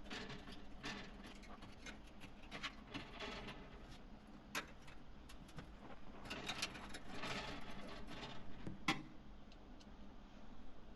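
Faint, irregular metallic ticking and clicking of a screwdriver turning screws into the oven's sheet-metal panel to hold the thermostat probe in place, with a couple of sharper clicks about halfway and near the end.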